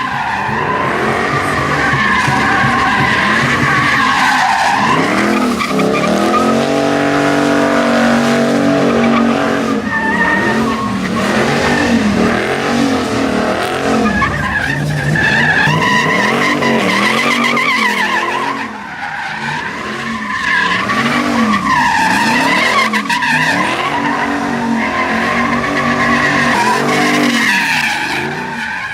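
Truck engines revving up and down over and over while the tyres squeal and skid through burnouts and donuts. The loudness dips briefly about two-thirds of the way in.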